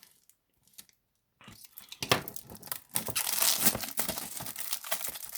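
Plastic shrink wrap being torn and peeled off a Blu-ray case, crinkling and crackling. It starts with a few light handling clicks and becomes a loud, continuous crinkle about two seconds in.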